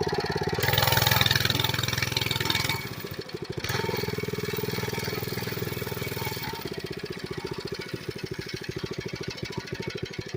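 Mini bike's small engine running under way, louder and rougher for the first couple of seconds, holding steady, then easing off to a lower, quieter run after about six and a half seconds.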